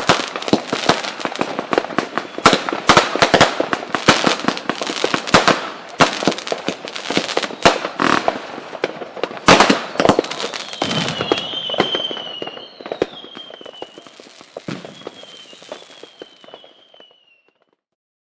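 Fireworks going off: rapid crackling and sharp bangs in a dense run, the loudest bang about halfway in. Then shrill whistles, each sliding down in pitch, as the bangs thin out, and the sound stops about a second before the end.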